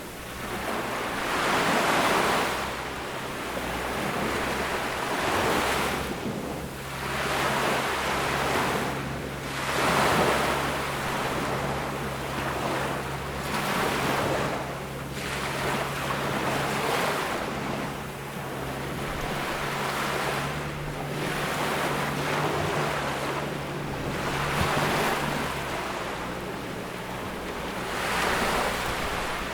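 Ocean waves breaking and washing up a beach, one swell every three to four seconds. A low steady hum runs under them from about six seconds in until near the end.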